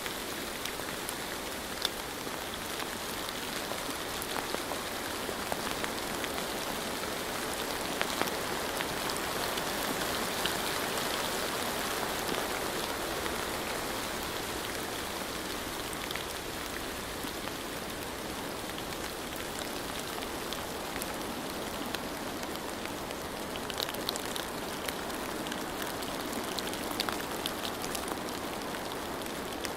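Steady rain falling, an even hiss with scattered drops ticking close by on a hard surface, the drips thickening a little near the end.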